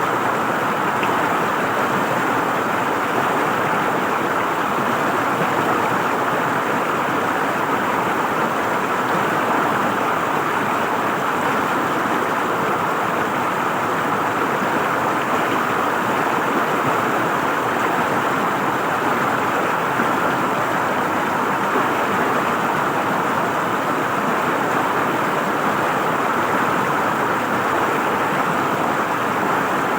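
River water flowing and gurgling over rocks, a steady rushing sound.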